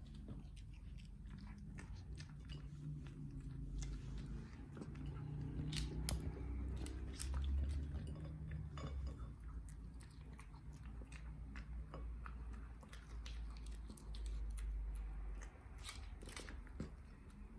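Dachshund chewing and biting food, with many irregular sharp clicks and crunches over a low steady hum.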